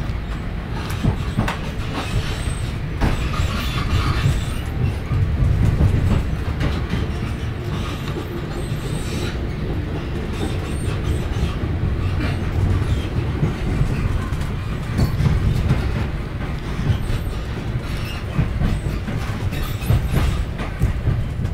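A passenger train running at speed, heard from inside the carriage: a steady low rumble with scattered clicks of the wheels over rail joints.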